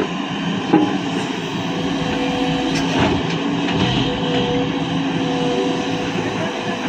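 Diesel engine of a JCB 3DX backhoe loader running steadily under load, with a steady whine over it and a single knock about a second in.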